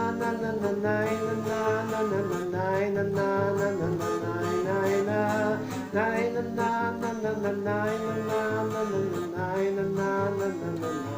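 Instrumental break between sung verses of a three-chord song: acoustic guitar playing, with a melody line carried over the chords.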